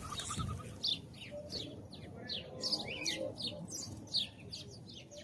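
House sparrows chirping: a rapid run of short, downward-sliding chirps, several birds overlapping.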